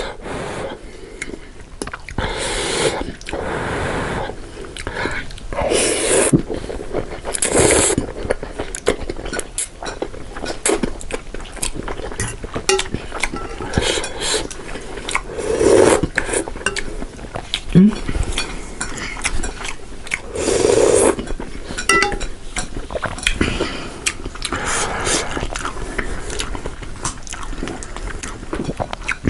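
Close-up eating sounds: cutlery clinking and scraping against a bowl, with repeated noisy swells of noodles being slurped and food chewed.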